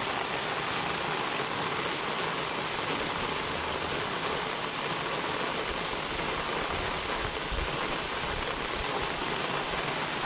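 Heavy rain pouring steadily, a dense even hiss of water, with one brief low thump about three-quarters of the way through.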